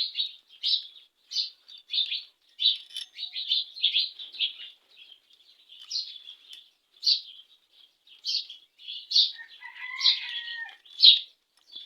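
A small bird chirping over and over in short, high notes, about one or two a second, with a brief whistled note about ten seconds in.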